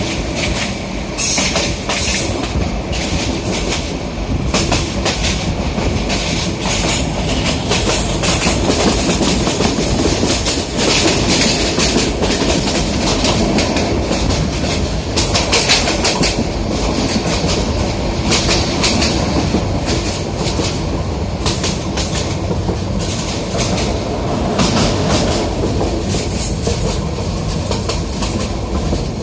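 Passenger train running at speed, heard from aboard: a steady rumble with the wheels clattering over the rail joints.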